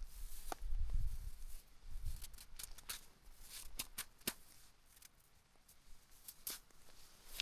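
Footsteps crunching and clicking on loose rocky ground, with gusts of wind buffeting the microphone about one and two seconds in.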